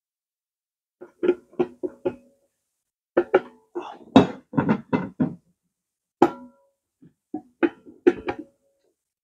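A run of sharp metallic knocks and clinks in four short clusters, each ringing briefly at the same pitch, as metal parts are handled and struck during cleaning work on the front wheel.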